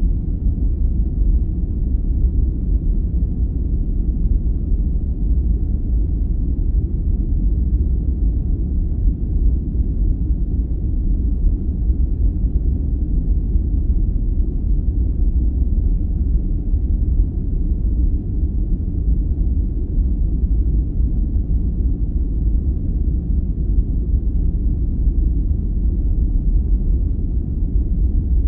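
Steady, deep rumbling noise for sleep, unchanging throughout: a dark, bass-heavy hiss with no high end.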